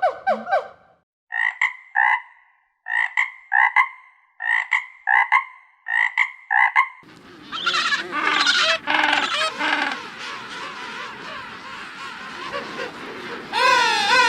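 Frog croaking in a steady series, about two short croaks a second, followed a few seconds later by a denser mix of wavering calls.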